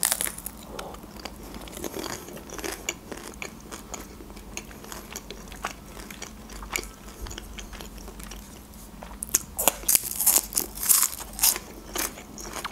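Close-miked bite into a soft taco wrapped in thin lavash, then chewing: a sharp bite at the start, then steady small wet clicks and crackles, growing louder and denser about nine seconds in.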